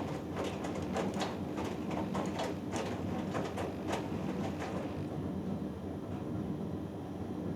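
Hoover Dynamic Next washing machine drum turning a 3 kg cotton load in the wash, with repeated swishing strokes as the wet laundry tumbles. The tumbling stops about five seconds in, leaving a steady low hum.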